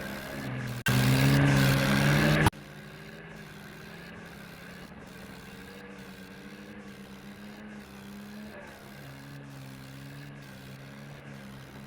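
Swaraj 855 tractor's three-cylinder diesel engine running steadily under way. About a second in the sound turns abruptly much louder for about a second and a half, then drops back just as suddenly to steady, quieter running. Its note shifts slightly about nine seconds in.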